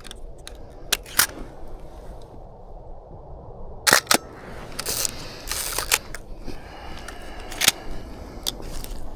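Hasselblad 501CM medium-format camera being handled and fired: a few separate clicks, the loudest a close pair of sharp clacks about four seconds in, with a short stretch of mechanical scraping just after.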